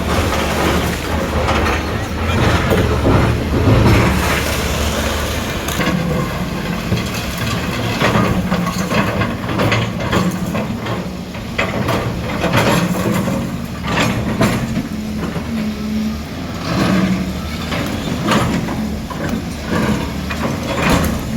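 Heavy demolition machinery running: a deep diesel engine rumble, heaviest in the first few seconds, then repeated clattering and crunching knocks as debris is broken up and moved.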